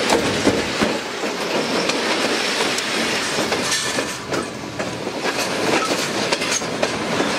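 Train carriages passing right alongside, steel wheels running over the rails in a steady noise with repeated clicks as the wheels cross the rail joints.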